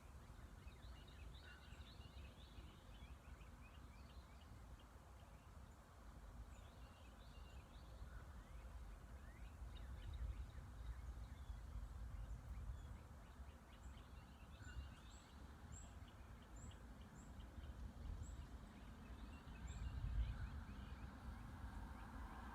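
Faint outdoor birdsong: scattered short chirps over a low steady rumble, with a run of high thin notes, about one a second, in the second half.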